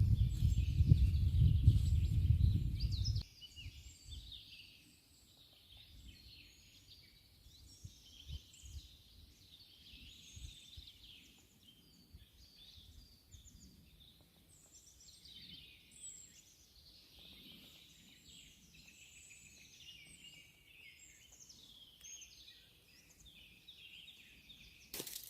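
Wild birds singing, many overlapping chirps and song phrases. For the first three seconds a loud low rumble sits under the birdsong, then cuts off suddenly.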